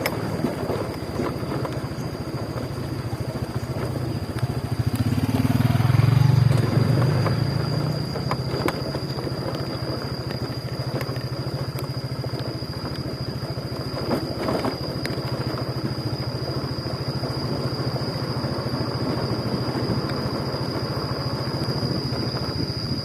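Motorcycle engine running under way, with road noise. It swells louder about six seconds in, then settles back to a steady run.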